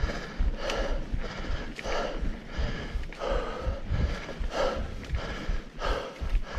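A tired mountain biker panting hard while riding, quick heavy breaths about every two-thirds of a second, over the low rumble of the bike on the trail.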